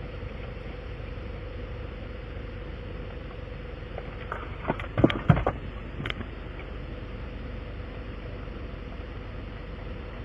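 A steady motor hum with a constant tone, with a short cluster of clicks and knocks about halfway through.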